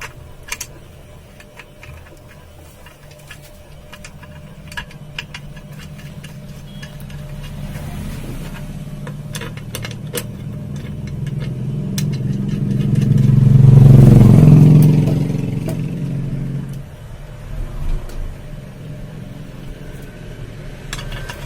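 A motor vehicle passing by: a low engine rumble that builds over several seconds, peaks a little past the middle, and fades away. Scattered light clicks come from screws being fitted into the fan.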